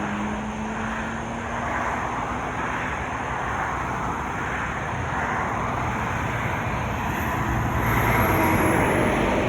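Road traffic: vehicle engines and tyre noise from passing cars, with one engine tone climbing and then holding steady, and the noise swelling near the end as a vehicle goes by.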